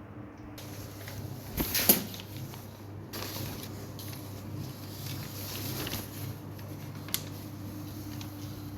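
Cats scuffling and rustling about, with a cluster of sharp knocks about two seconds in and a smaller knock near the end, over a steady low hum.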